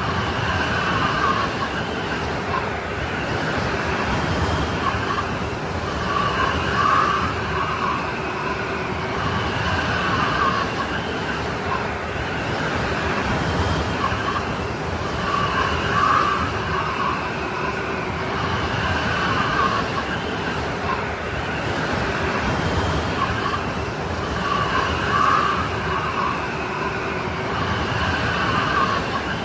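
Strong snowstorm wind blowing steadily, with a howling, whistling edge that swells about every three seconds.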